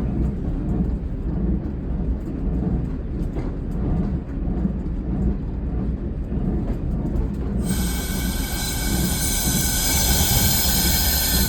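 Single-car diesel railcar rumbling along at low speed as it slows. About two-thirds of the way through, a loud, high metallic squeal of several steady tones sets in from the wheels and carries on to the end.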